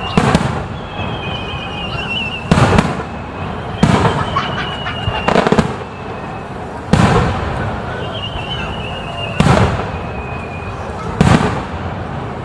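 Aerial fireworks shells bursting, seven loud bangs about every one and a half to two and a half seconds, each with a short rumbling echo. A thin whistle sounds before several of the bursts.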